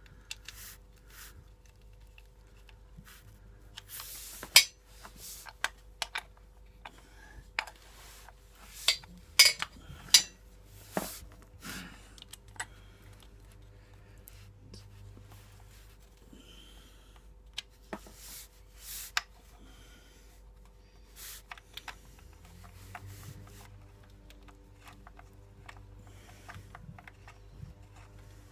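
Hand tools clicking and clinking against metal as the oil pan bolts of a Honda CBR motorcycle are snugged up: irregular small taps and clicks with a handful of sharper metallic knocks.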